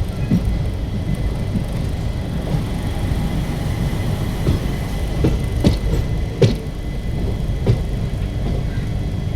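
Passenger express train running on the rails: a steady low rumble of wheels on track, with a few sharp knocks, the loudest a little past the middle, as the wheels cross rail joints.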